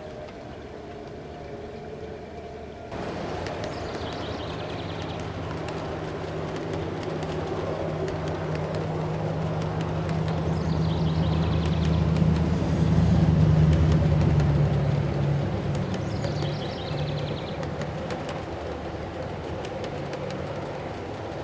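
A train rolling past, with rapid clicking of wheels over rail joints over a low diesel rumble. It starts abruptly a few seconds in, swells to its loudest about two-thirds of the way through, then fades.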